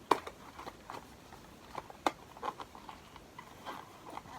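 A small cardboard advent-calendar box being opened and its contents unwrapped by hand: scattered sharp clicks and taps with light crinkling. The two loudest clicks come right at the start and about two seconds in.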